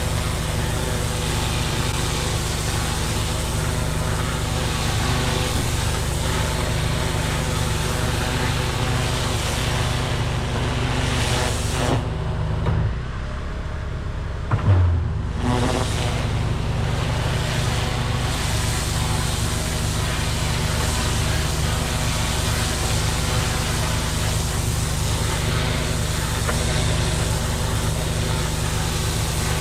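Pressure washer running with the high-pressure jet hissing from a turbo nozzle, blasting moss off roof tiles over a steady engine drone. The spray cuts out for about two seconds around the middle, then comes back after a short thump.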